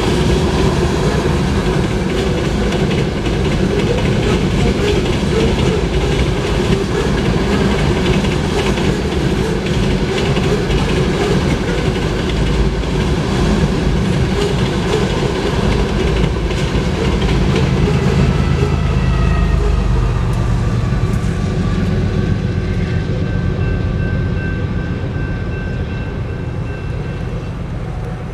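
Covered hopper cars of a long freight train rolling past, a steady rumble with the wheels clicking over the rail joints. The rumble swells about two-thirds of the way through, then fades as the end of the train clears.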